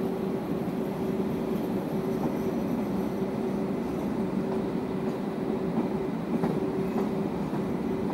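Electric commuter train running past: a steady rumble of wheels on rail with a steady hum held through it.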